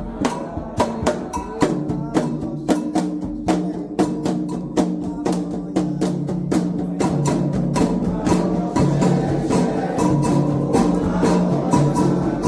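Candomblé ritual percussion: hand drums and a sharp, clicking timekeeper struck in a steady fast rhythm, over sustained pitched tones that grow stronger about halfway through.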